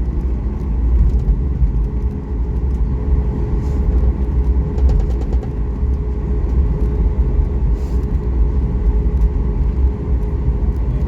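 Steady low rumble inside a moving vehicle, with a constant hum and a few faint clicks.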